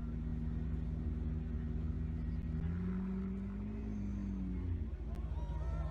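A car engine running steadily, its revs rising and then falling back once near the middle.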